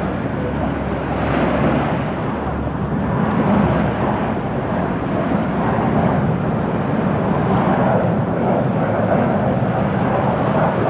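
Jet aircraft engines running, a steady, loud rushing noise with no break.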